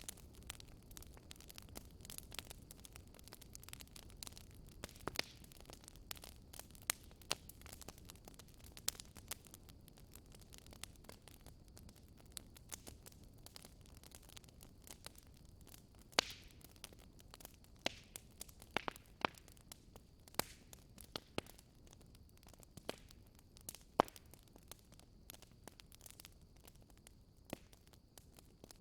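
Wood fire in a fireplace crackling, with irregular sharp pops and snaps, a few much louder than the rest, over a low steady hiss.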